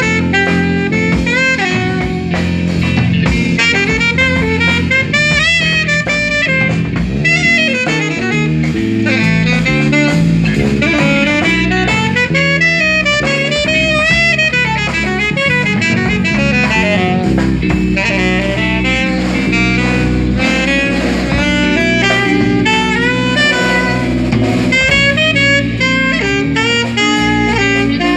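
Live instrumental jazz quintet of drums, bass, guitar, trumpet and saxophone playing, with a horn carrying a quick-moving melody over the bass and drums.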